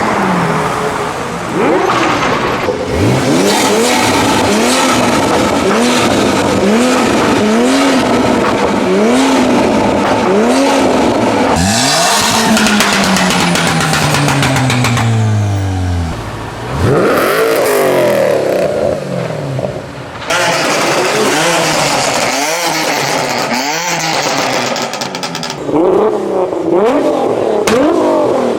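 Car engines being revved again and again, the pitch rising and falling about once a second, with one long drop in revs around the middle. Toward the end several revs overlap, as if more than one car is revving at once.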